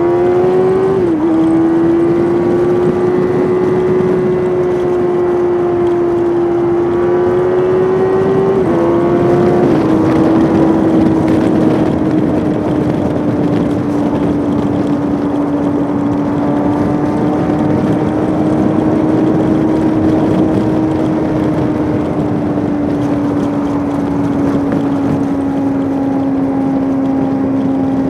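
Suzuki GSX-R600's inline-four engine running hard under way, with wind rush over it. The engine note drops sharply with gear changes near the start and again about nine seconds in, then holds a steady note that sinks slowly.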